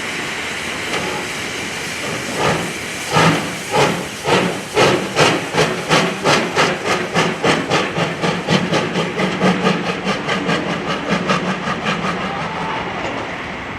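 C57 1 steam locomotive, a two-cylinder Pacific, starting off: steady steam hiss, then exhaust chuffs from the chimney that begin about two seconds in and quicken as it accelerates, becoming a rapid beat that eases slightly near the end.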